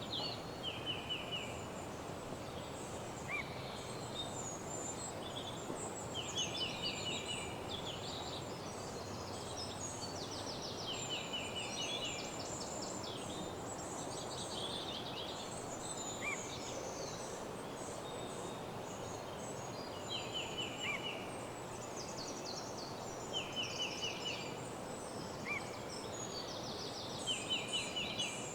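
Woodland birdsong over a steady background rush. One bird repeats a short, rapid trill of even notes every few seconds, and other birds add brief higher calls and chirps.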